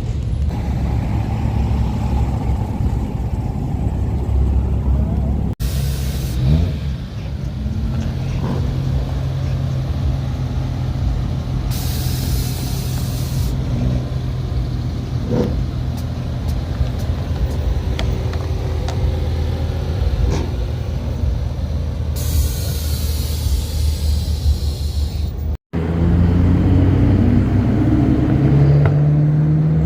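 Car engine running at a steady idle, then revving with rising pitch near the end. Two short spells of hiss come partway through.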